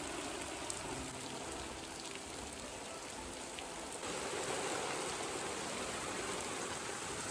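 Heavy rain pouring down in a rainstorm, a steady hiss that gets a little louder about four seconds in.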